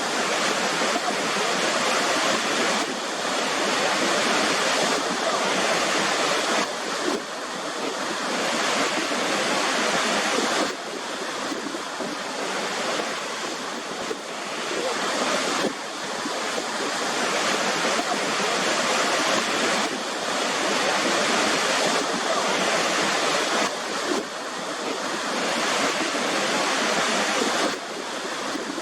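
Waterfall: a steady, dense rush of falling water, with small abrupt shifts in level every few seconds.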